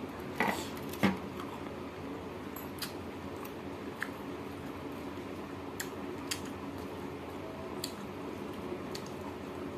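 Close-up eating sounds from a person eating rice and soup by hand: wet chewing and mouth smacks, with scattered small clicks, the loudest about a second in. A faint steady hum lies underneath.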